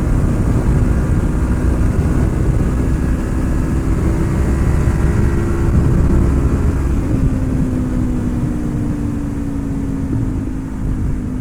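Honda CB500F's parallel-twin engine running at a steady cruise under a rush of riding noise. From about seven seconds in, its pitch drifts slowly lower as the bike eases off.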